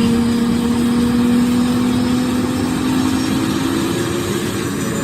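Tour helicopter running steadily, a loud engine-and-rotor noise with a steady hum over it; the sound cuts off suddenly at the end.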